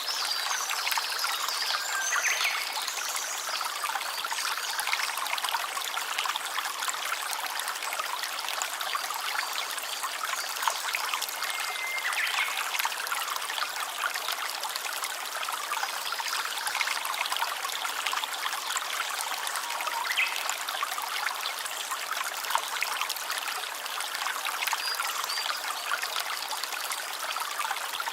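A small stream trickling and babbling steadily over stones, with a few brief faint chirps now and then.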